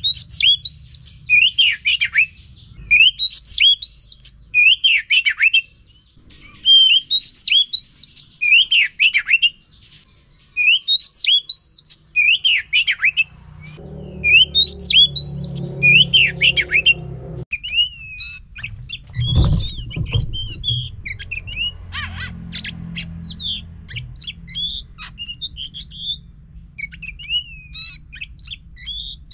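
Oriental magpie-robin (kacer) calling, a lure track for a silent bird: loud, sharp chirped phrases repeated over and over at a steady pace, turning to quicker, fainter and more varied notes after about two-thirds. A low hum runs underneath in the later part, with a single dull thump.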